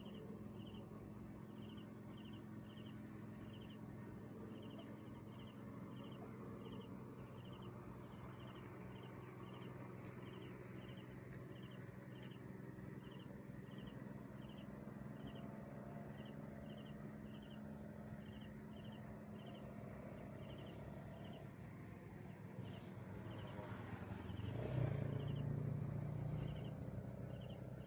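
An insect chirping steadily outdoors, short high pulses repeating about once or twice a second over a low steady background noise. Near the end a low rumble swells up and fades away.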